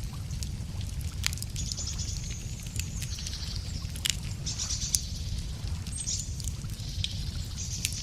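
Wood fire crackling, with a few sharp pops, over a steady low rumble, while birds sing high trilling phrases several times.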